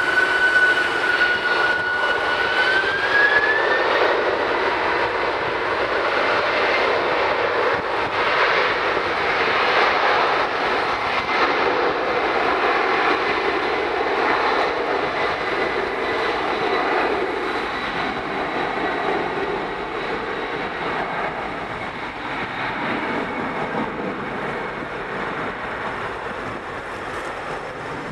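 Jet airliner's engines at takeoff thrust: a whine that rises in pitch over the first few seconds over a loud, steady roar, which then slowly fades as the aircraft moves away.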